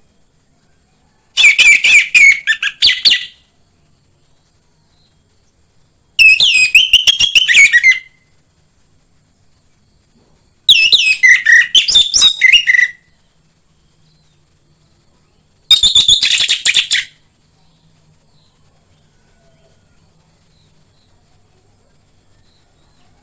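Orange-headed thrush singing: four loud bursts of rapid, varied whistled phrases, each about two seconds long and a few seconds apart, with no song after the fourth. A steady faint high hiss runs underneath.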